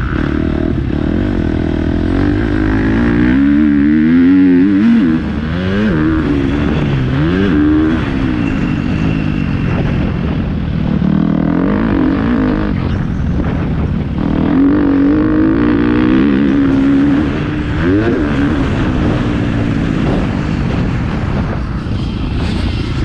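Motocross bike engine revving up and down again and again, its pitch climbing and dropping as the rider accelerates, shifts and backs off around the track, with heavy low rumble on the action camera.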